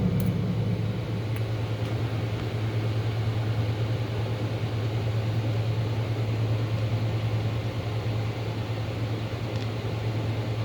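Steady low hum with an even hiss from a record player's playback setup, left running after the music stops about a second in.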